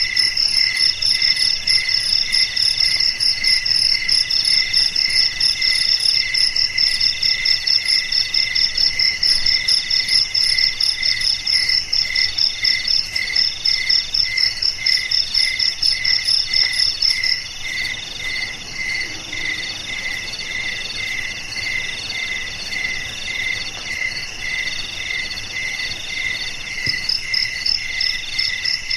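Chorus of crickets calling together: a fast, high pulsing trill that drops out about two-thirds of the way through and comes back near the end, over a steady, lower chirp repeating about twice a second and a third call in long, even phrases.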